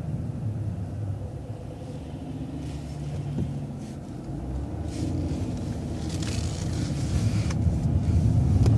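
City transit bus engine running low, then pulling away and growing louder from about five seconds in, heard from inside the bus, with a few short hisses.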